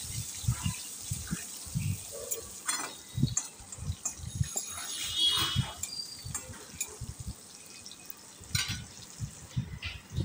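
Potato pieces frying in hot mustard oil in a metal kadai, a soft sizzle that fades slightly, while a metal spatula stirs them, scraping and knocking against the pan over and over.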